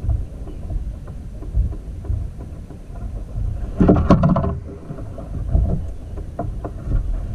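Gusty low rumble, like wind buffeting the microphone, with a burst of knocks and clatter about four seconds in and a few single knocks after, typical of fishing gear being handled on a plastic kayak.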